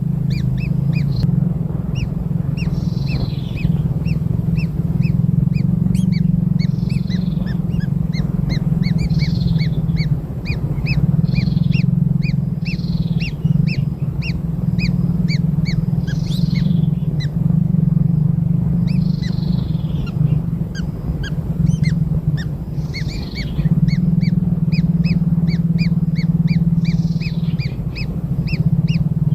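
Newly hatched kingfisher chicks giving rapid, high-pitched begging chirps, several a second, with short raspy calls mixed in. A loud steady low hum sounds beneath them and breaks off briefly a few times.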